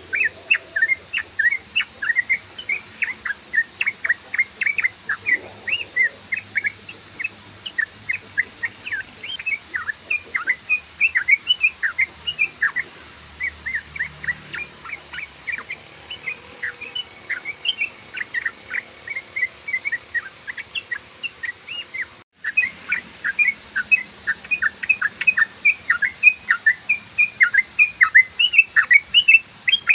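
Yellow-vented bulbul (trucukan) singing a rapid, unbroken run of short chirping notes, several a second, with a brief dropout about two-thirds of the way through.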